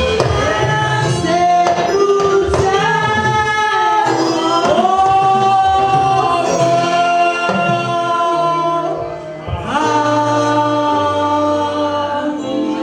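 Gospel singing with instrumental backing and a bass line, in long held notes that dip briefly about nine seconds in before picking up again.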